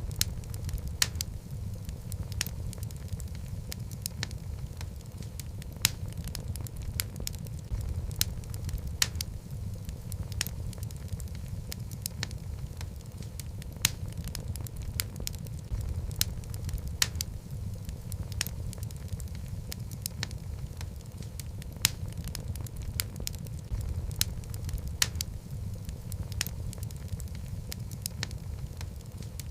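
Wood fire of burning logs in a fireplace, crackling: frequent sharp irregular pops over a steady low rumble of the flames.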